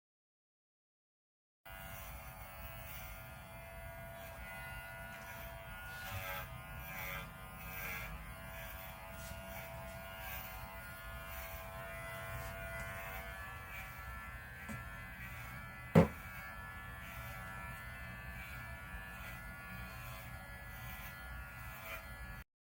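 Electric pet hair clippers running steadily while trimming a dog's fur, with one sharp click about three quarters of the way through. The clippers start abruptly after a brief silence and stop abruptly near the end.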